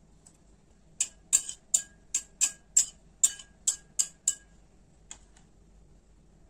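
A quick run of about eleven sharp, light clicks, about three a second, then a single click near the end: kitchen utensils clicking and tapping.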